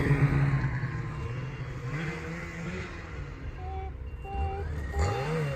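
Ski-Doo Summit 850 snowmobile's two-stroke engine running. It is loud at first and fades during the first second, then runs quieter with its pitch shifting. About five seconds in it revs up briefly and drops back.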